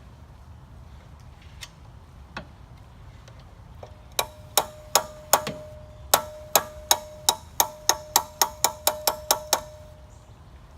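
An adjustable wrench used as a hammer, driving an alloy jaw-coupling cog onto a hydraulic pump shaft. About seventeen sharp metal-on-metal strikes, about three a second, start about four seconds in, each ringing briefly at the same pitch. They end near the close.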